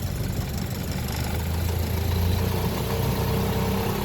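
Land Rover Series II 2.25-litre petrol four-cylinder engine running steadily in low-range first gear, growing a little louder partway through.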